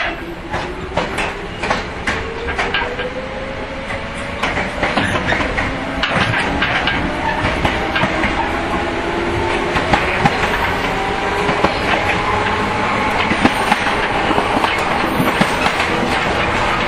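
115 series electric train running, heard from inside the car: its traction motors whine, rising steadily in pitch as the train gathers speed, over wheel rumble and rail-joint clicks that come thick in the first few seconds.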